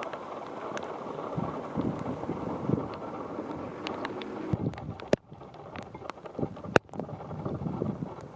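Strong typhoon wind buffeting the microphone in gusts, with rain ticking. Two sharp knocks about five and seven seconds in.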